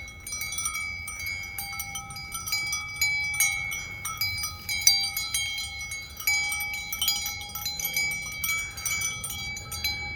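Metal chimes ringing, struck again and again, with several clear overlapping tones that hang on after each strike.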